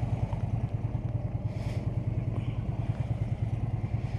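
Harley-Davidson V-twin motorcycle engine idling steadily with an even low pulse.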